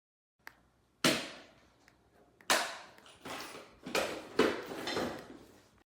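A faint click, then a string of about five sharp bangs, each dying away over a fraction of a second.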